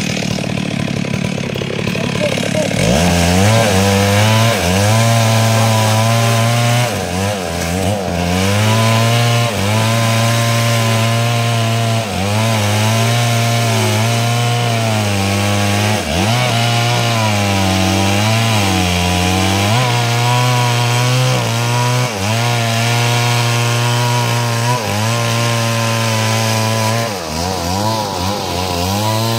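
Stihl two-stroke chainsaw cutting lengthwise through a wooden log to make planks. The engine picks up to full revs about three seconds in, then holds them, briefly dropping in pitch several times as it bogs under the load of the cut.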